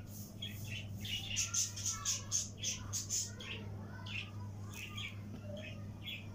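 Small birds chirping in quick runs of short, high chirps, over a low steady hum.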